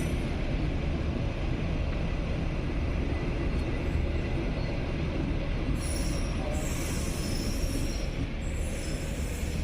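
Train rolling along the track: a steady low rumble with brief high-pitched wheel squeals about six and seven seconds in.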